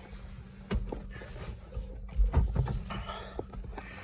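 Electric fuel pump of a Nissan pickup priming with the key switched on: a faint steady hum that stops about two seconds in, with knocks and rustling from handling in the cab.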